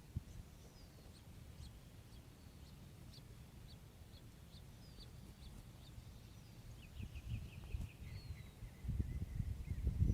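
Small wild birds calling outdoors: short, high chips and little down-slurred calls, with a quick rattling series of chips about seven seconds in. A low rumble runs underneath and gets louder near the end.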